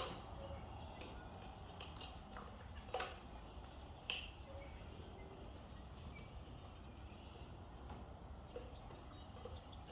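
A few light clicks and knocks of hands handling ignition-coil parts in an engine bay, the clearest about three and four seconds in, over a faint low hum.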